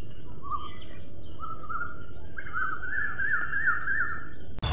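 Birds singing: short rising chirps, then from about two and a half seconds in a louder, quickly repeated warbling phrase of about four notes a second. A steady high hiss runs underneath.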